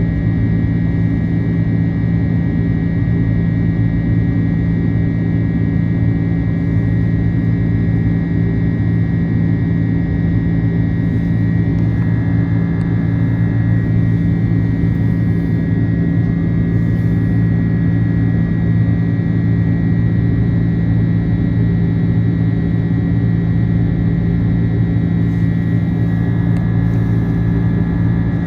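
Airbus A330-300 cabin noise in flight: a loud, steady drone of the jet engines and airflow, with a constant low hum and a fainter high tone that do not change.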